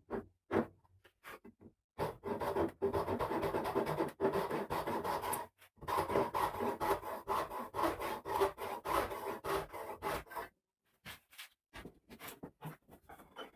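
Rapid rubbing and scraping strokes of a hand tool working wood, in two long runs that start about two seconds in, break briefly at about five and a half seconds and stop about ten and a half seconds in. A few short scrapes and taps come before and after.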